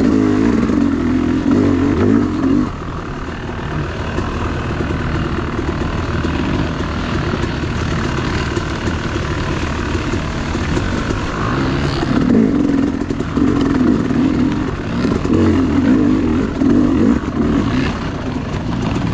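Dirt bike engine running under throttle, revving up and easing off in repeated bursts, loudest near the start and again in the second half.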